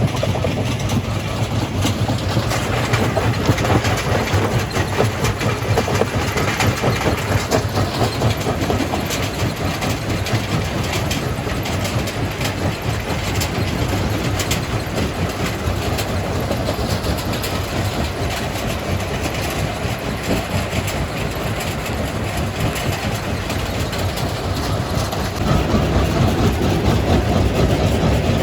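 Jaw crusher running, with a steady low machine drone under continuous clattering of rock, getting louder near the end.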